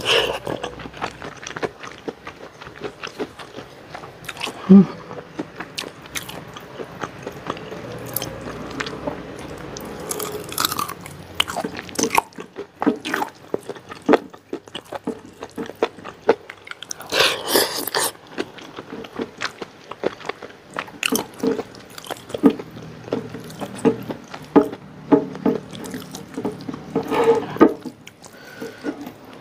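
Close-miked chewing of a mouthful of rice, fried chicken and vegetables eaten by hand, with frequent wet mouth smacks and clicks, picked up by a clip-on microphone at the chin.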